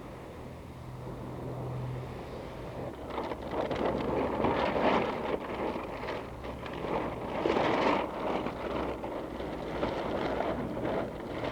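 Wind rushing over the microphone in surging gusts, louder twice in the middle, over a steady low hum in the first few seconds.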